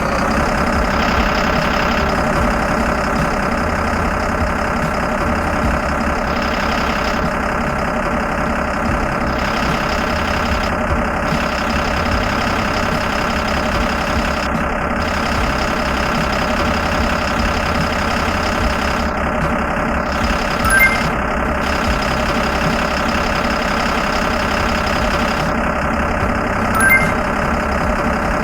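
Car-carrier truck's engine running steadily, with two brief high chirps in the second half.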